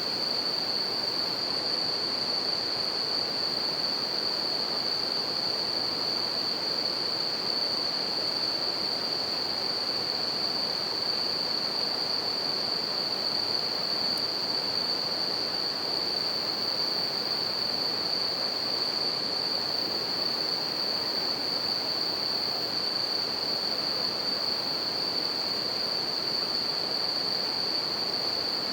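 A river rushing steadily, with bell crickets (suzumushi) singing in a continuous high chorus over it.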